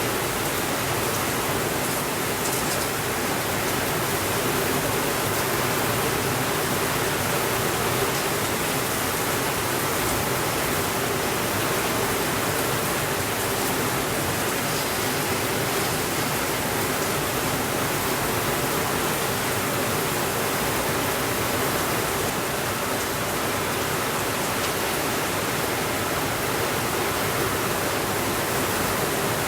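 Steady rainfall, an even, unbroken hiss with a few faint ticks.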